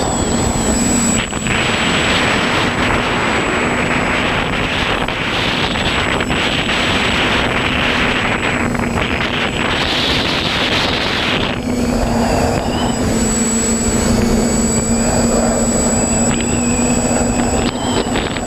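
Quadcopter's electric motors and propellers humming at a steady pitch, heard through the GoPro mounted on it, with wind rushing over the microphone that swells and eases, loudest for the first half.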